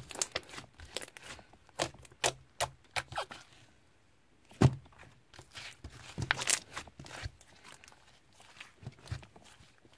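Slime being squished and stretched by hand: an irregular run of sharp sticky pops and clicks, with a short lull partway through and then one louder pop.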